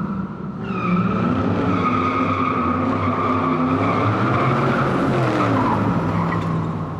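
Car engine running hard with a sustained tire squeal, as in a skid or drift.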